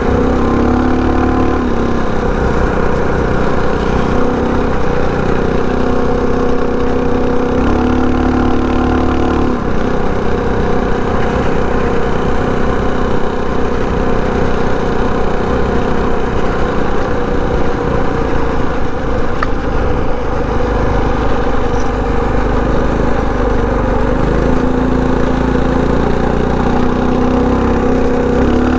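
Predator 224 single-cylinder four-stroke engine of a mini bike running steadily while being ridden, its pitch mostly even with a few slight shifts as the throttle changes.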